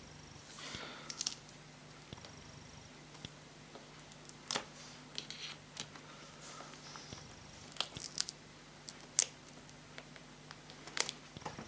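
Scattered small clicks and brief crinkling rustles from plastic parts and tape being handled and prised on a laptop's display assembly. The loudest ticks fall about 4.5, 9 and 11 seconds in, over a faint steady hum.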